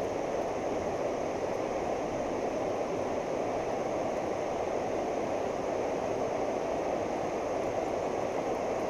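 Rushing water of a fast, flooded creek: a steady, even rush with no rhythm or breaks.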